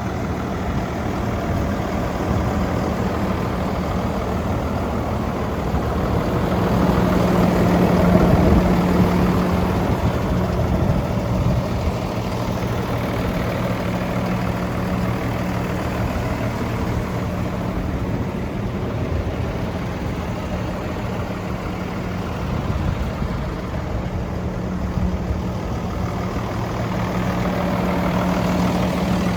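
Fendt 716 Vario tractor's six-cylinder diesel engine idling steadily, with a low even hum that grows somewhat louder for a couple of seconds about a quarter of the way in.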